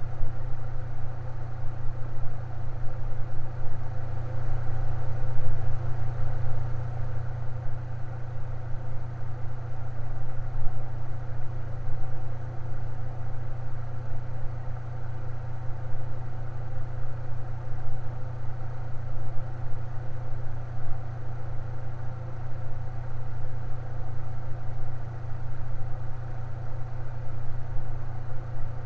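Electric fan running steadily: a constant low hum with a soft whir of air above it.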